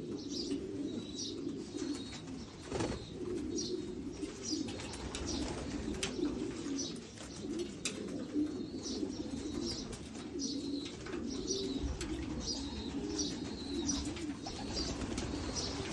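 Racing pigeons cooing continuously, with repeated short high chirps and occasional sharp clicks.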